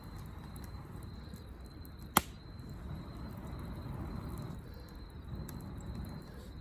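Wood fire burning with faint scattered crackles over a low rumble, and one sharp loud pop about two seconds in.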